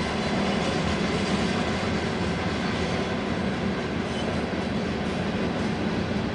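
Ballast hopper cars of a freight train rolling past, a steady noise of steel wheels running on the rails.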